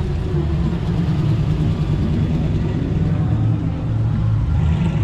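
Car engine running steadily with a deep, continuous rumble.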